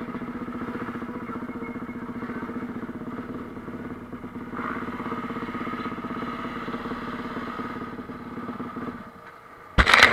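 Motocross motorcycle engine idling steadily, then fading away about nine seconds in, followed by a sudden loud bump near the end.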